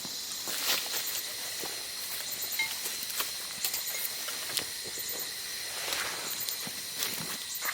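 Outdoor ambience: a steady high hiss with scattered crackles and snaps throughout, and a faint steady high tone underneath.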